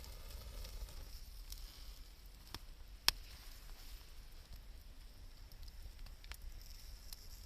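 Wood campfire burning with a soft hiss and a few sharp crackling pops, the loudest about three seconds in.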